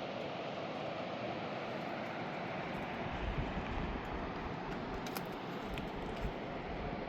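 Steady rush of a mountain river's flowing water, with a low rumble joining about three seconds in and a couple of faint clicks near the end.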